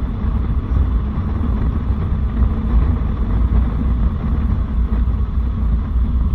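Harley-Davidson V-twin motorcycle cruising at road speed: a steady engine rumble mixed with wind noise on the rider's microphone.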